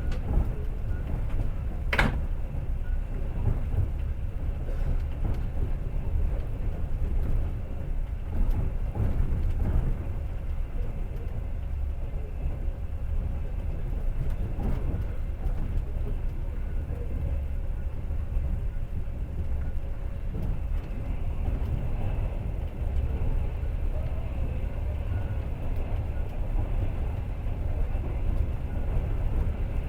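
Passenger train running on rails: a steady low rumble of the wheels and carriage, with a sharp click about two seconds in.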